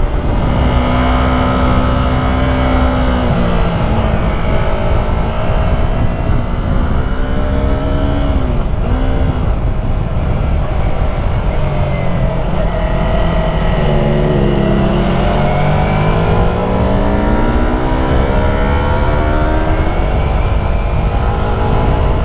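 Yamaha YZF-R3 321 cc parallel-twin engine heard from the rider's helmet camera while riding a winding mountain road. The engine note rises and falls as he accelerates, shifts and rolls off for corners, with a quick dip and recovery a little before halfway and a long climb in revs over the second half, over steady wind rush.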